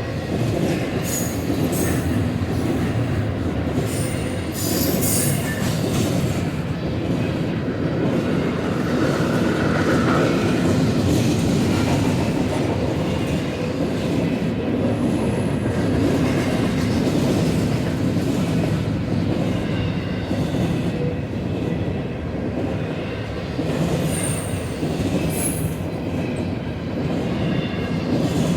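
Empty freight cars rolling past with a steady rumble of wheels on rail. Brief high-pitched wheel squeals come a second or two in, again around five seconds, and near the end.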